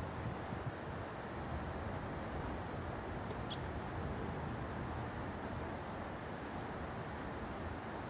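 A small bird giving short, thin, very high call notes, about one a second, with a single sharp click about three and a half seconds in, over a low wind rumble.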